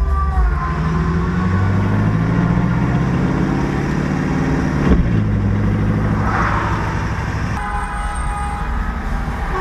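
A Chevrolet Camaro SS's V8 engine pulling under acceleration, its pitch climbing for the first few seconds, a brief knock about five seconds in, then running more steadily. A car horn sounds over it for the last two seconds.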